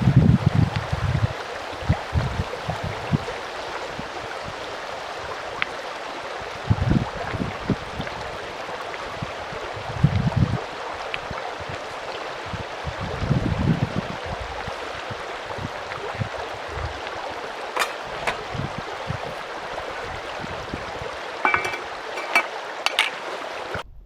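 A mountain stream rushing steadily, with low gusts of wind buffeting the microphone now and then. A few sharp clicks come near the end.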